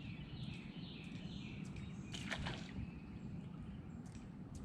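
Faint birds chirping over a low, steady outdoor rumble, with a light click or two about two seconds in and again near the end.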